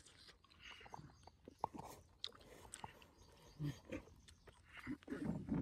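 Faint crunchy bites and chewing of watermelon, in scattered short clicks. Near the end a louder low-pitched sound sets in.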